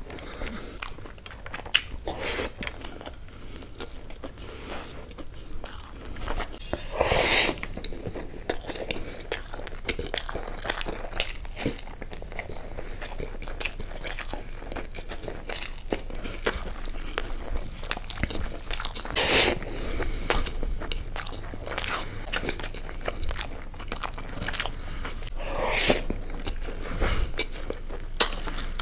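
A man chewing mouthfuls of biryani and curry eaten by hand, with many small wet mouth clicks and a few louder mouth sounds spread through.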